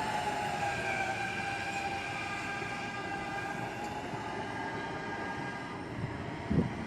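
Subway train running, its motors whining in several tones that slowly fall in pitch over a steady rumble of wheels on rail. A single dull thump comes near the end.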